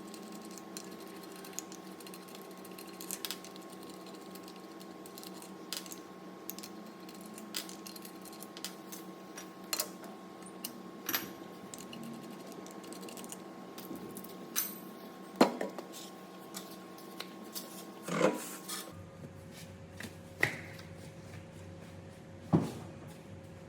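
Metal hand tools clinking and tapping at irregular intervals during front brake caliper work, over a steady hum. A few louder knocks come in the second half.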